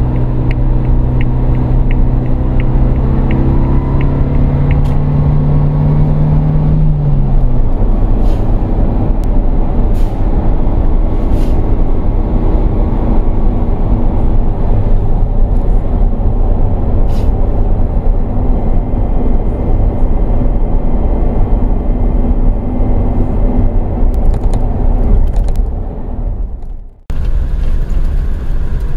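Suzuki Jimny Sierra's 1.5-litre four-cylinder petrol engine heard from inside the cabin, pulling hard in third gear with its pitch rising while the turn signal ticks about twice a second. About seven seconds in the revs drop with the shift into fourth, and the engine then cruises steadily under road and wind noise. Near the end the sound fades and cuts out briefly.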